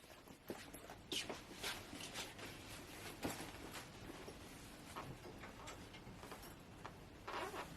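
Scattered light clicks and taps, a few sharper ones about a second in and around three seconds in, and a short cluster near the end.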